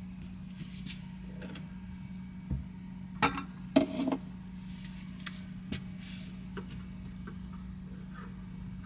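A few light clicks and knocks, the loudest a pair about three to four seconds in, over a steady low hum.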